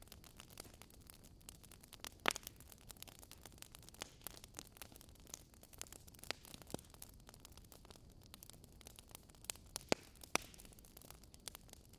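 Wood fire crackling: irregular sharp pops and snaps, the loudest about two seconds in and again near ten seconds, over a faint steady background hiss.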